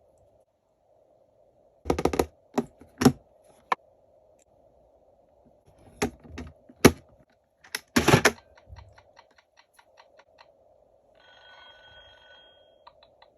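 Clicks and knocks of hard plastic being handled on a Cookeez Makery toy oven. Then comes a run of quick even ticks, about five a second, and near the end a buzzy electronic toy tone lasting about two seconds.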